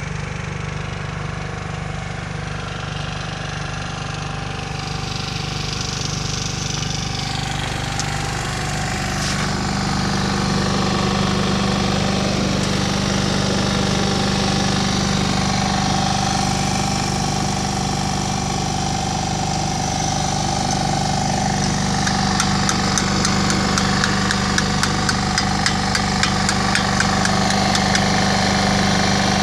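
Engine of an Atlas Copco HiLight light tower's generator running steadily under test, getting a little louder about a third of the way in. About two-thirds of the way through, a regular ticking joins the steady running.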